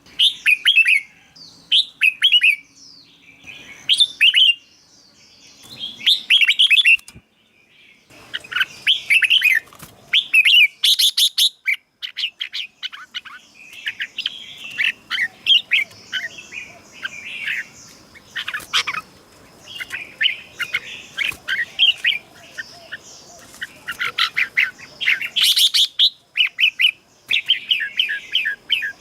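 Red-whiskered bulbuls singing: quick, bright, warbling phrases. The phrases come with short gaps at first and run almost without a break from about eight seconds in.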